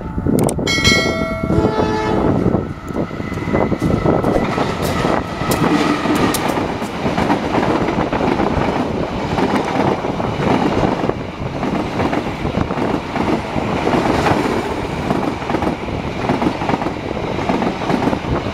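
A diesel locomotive's horn sounds for the first two seconds or so, then the locomotive and its passenger coaches pass close by with a steady wheel rumble and clickety-clack over the rail joints.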